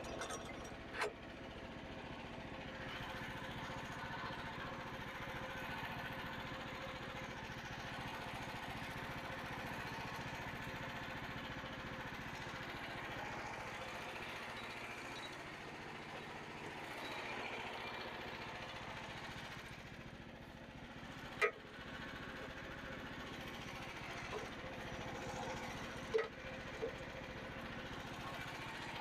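Frontier OS27 portable bandsaw mill running steadily, its engine driving the band blade slowly through a knotty white pine log. A few sharp knocks stand out, the loudest about two-thirds of the way in.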